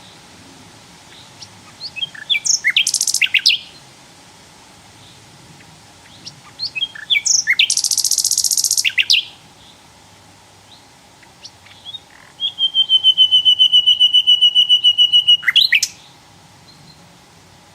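Sikatan londo flycatcher singing in three phrases with pauses between them. The first two are quick, high chattering runs, and the last is a fast, even trill held on one pitch for about three seconds.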